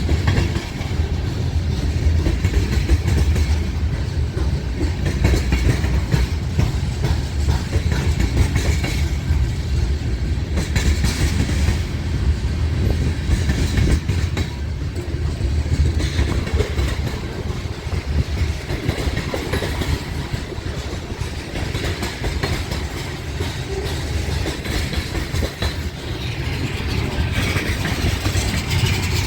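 Loaded grain train rolling steadily past, its freight cars rumbling with a constant clicking of wheels over the rail.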